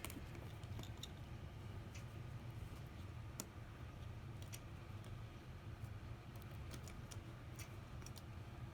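Faint, scattered small clicks and taps of tools and small parts being handled during a smartphone teardown, over a low steady hum.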